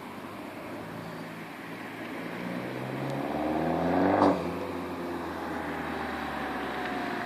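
Abarth 595 Competizione's 1.4-litre turbo four-cylinder through a Magneti Marelli Bombardone race exhaust, rising in pitch and loudness under acceleration to a peak about four seconds in, where a sharp pop sounds. The note then drops and runs on steadily at lower revs.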